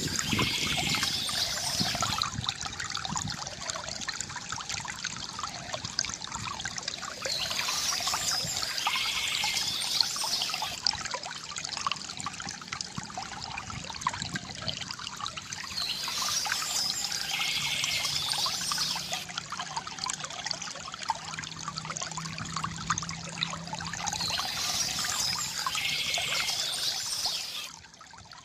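Stream water trickling and splashing steadily, with a short high-pitched bird song phrase repeating about every eight seconds. The sound falls away sharply near the end.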